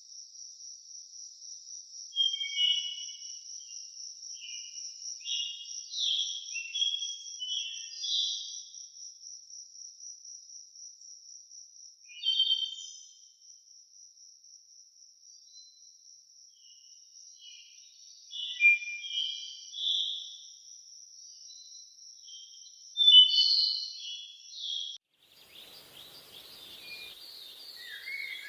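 Forest ambience: a steady, fast-pulsing high insect trill, like a cricket, with a songbird singing short phrases over it several times. Near the end the trill cuts off abruptly and the sound switches to a different recording, a wider hiss with other bird calls.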